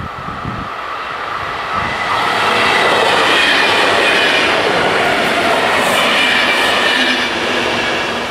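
A CFL class 2000 electric multiple unit passing over a level crossing. The rolling wheel noise swells about two seconds in, holds for some five seconds as the cars go by, and falls away near the end.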